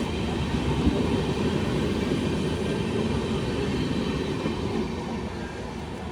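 Train running along the track with the steady noise of its wheels and coaches, easing off near the end.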